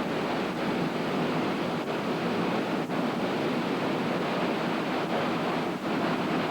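Hurricane wind and heavy surf, a steady noise with wind buffeting the microphone.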